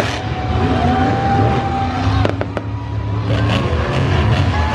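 Monster truck engine running with a steady low rumble, overlaid by bursts of sharp cracks and crackles, with two sharp cracks a little over two seconds in.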